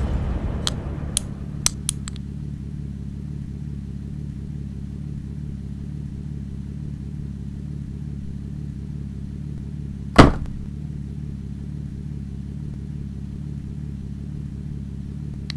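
Car engine idling with a steady, evenly pulsing low rumble, as a sound effect for a toy muscle car. A few light clicks come in the first two seconds, and a single sudden loud hit comes about ten seconds in.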